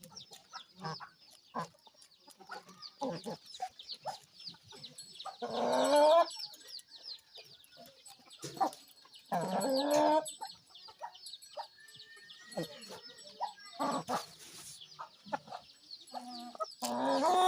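Aseel chickens calling and clucking over a continuous twitter of high chirps. Three louder, drawn-out calls come about six seconds in, about ten seconds in and near the end.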